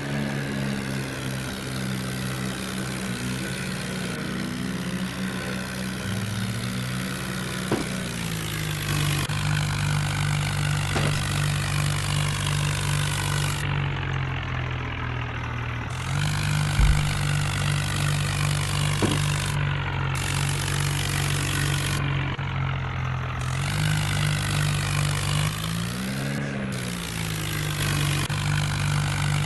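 John Deere tractor's diesel engine running steadily. Its note drops a little about a quarter of the way in, and it revs up briefly and falls back near the end.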